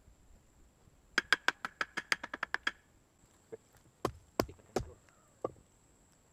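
A quick run of about a dozen sharp, ringing knocks that speed up, then four heavier knocks spaced a few tenths of a second apart: blows of a hand tool striking wood.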